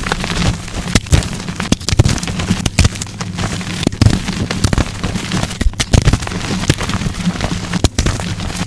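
Blocks of dyed gym chalk being crushed close to the microphone: dense crunching and crackling with frequent sharp snaps.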